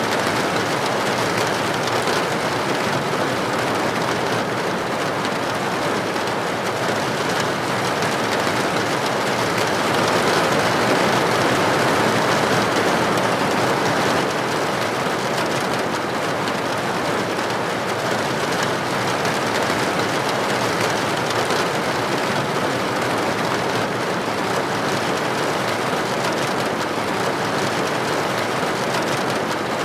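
Steady rain falling, an even hiss that swells a little louder for a few seconds midway.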